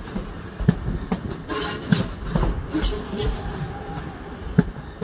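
Northern passenger train pulling slowly out along the platform. Its wheels knock and click irregularly over rail joints and points, with a low running rumble and a faint wheel squeal.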